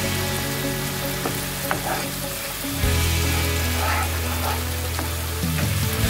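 Thick onion-and-tomato masala sizzling in a nonstick frying pan as a slotted spatula stirs and scrapes through it, with a few light knocks of the spatula against the pan. The spice paste is being fried down (kosha) in oil.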